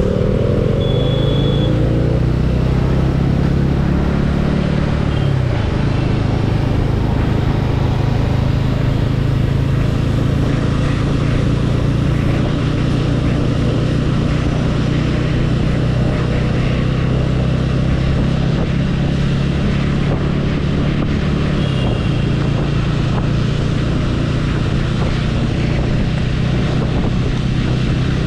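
Motorcycle engine running steadily while riding through traffic, with its pitch shifting a few times as the speed changes. A short high tone sounds about a second in.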